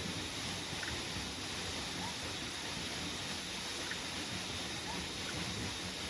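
Steady heavy rain falling, an even hiss with no breaks. A few faint, short rising calls sound through it, about two and five seconds in.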